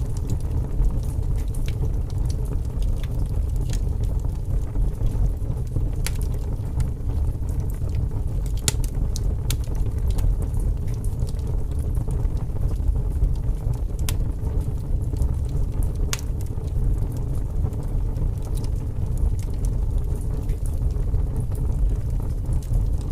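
Wood fire burning in a fireplace: a steady low rumble with scattered sharp crackles and pops, the loudest a few seconds apart.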